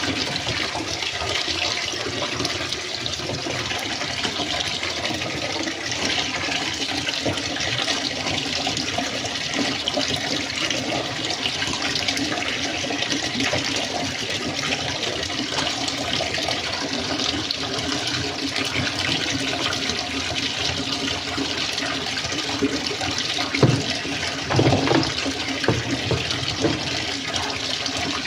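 Steady rush and churn of water in a twin-tub washing machine, with a few knocks near the end.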